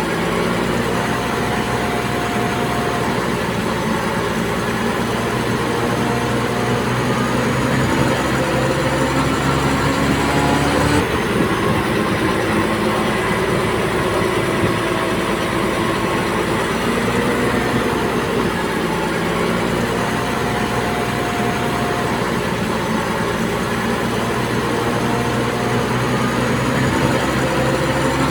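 Heavy diesel earthmoving machinery running under load, the engine pitch slowly rising and falling as the machines work. There is an abrupt shift in the low rumble about eleven seconds in.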